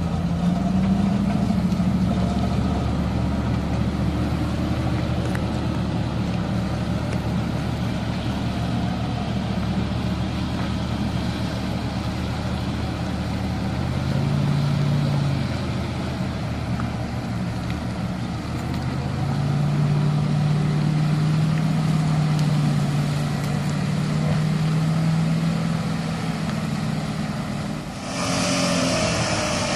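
A 4x4's engine running and revving in several long stretches, its pitch rising and holding, then easing off. About 28 seconds in, a hissing noise joins it.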